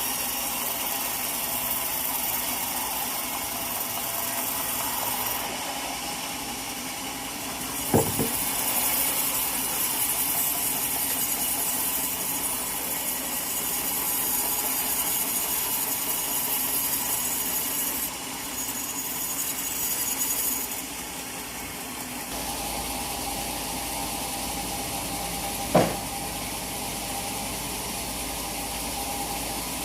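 Sawmill machinery running, a steady mechanical noise whose high hiss swells and fades in patches, with two sharp knocks, about eight seconds in and near the end.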